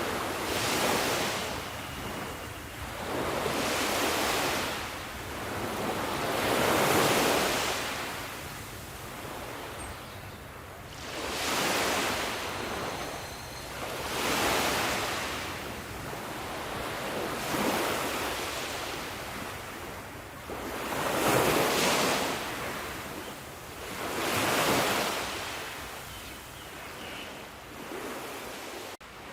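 Sea waves breaking and washing ashore, the surf hiss swelling and fading about every three seconds.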